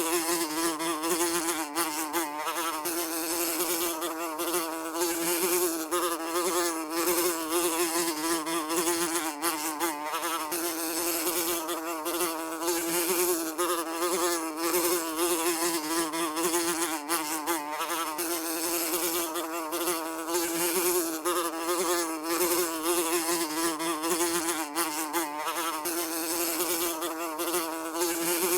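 Housefly buzzing continuously in flight, a steady drone with a wavering pitch and rapid flutter in loudness.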